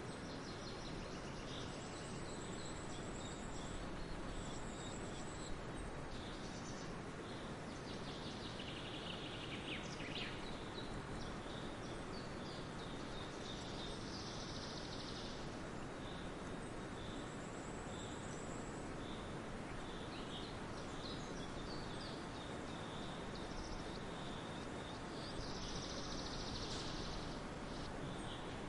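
Forest ambience: a steady background hiss with birds chirping and singing on and off, high thin calls and trills, busiest around a third of the way in, at the halfway mark and near the end.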